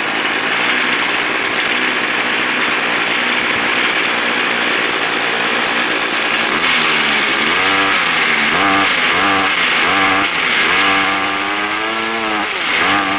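Gas string trimmer (weed eater) engine running just after a pull start. It runs steadily at first, then from about six and a half seconds in it is revved up and down again and again, its pitch rising and falling with each throttle squeeze.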